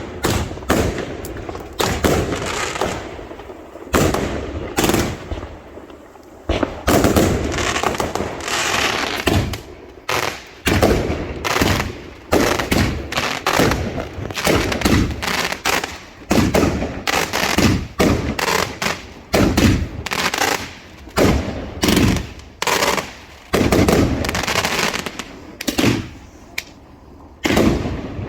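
Fireworks display: aerial fireworks going off in quick succession, a loud bang every second or so, some in close clusters, with stretches of hissing, crackling noise between the bangs.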